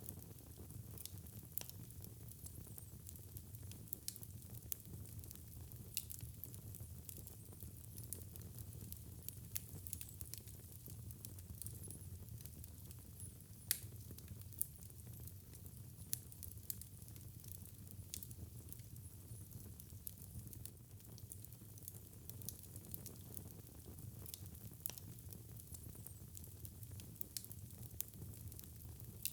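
Wood fire crackling in a fireplace: frequent small irregular pops and snaps over a steady low rumble of burning, with one louder pop about halfway through.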